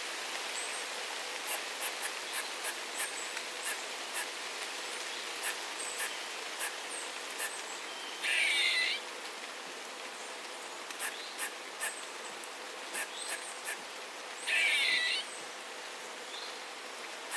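Steady rain with frequent drips, and a bird giving two loud, harsh calls, one about halfway through and one near the end.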